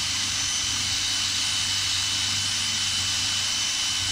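Cordless drill clamped in a vise, running steadily with a wire brush wheel, with a steady hiss of the wire wheel brushing grime off a small metal part.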